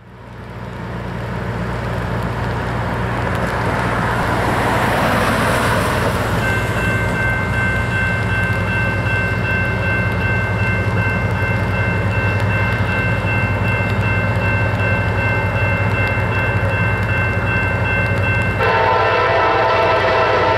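Freight train's diesel locomotive approaching with a steady low engine drone and rising rumble, and a steady high-pitched squeal joining about a third of the way in. Near the end the locomotive's air horn starts to blow.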